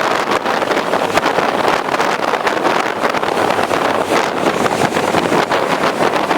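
Wind buffeting the microphone over the steady rush of a boat's engine and water noise while under way.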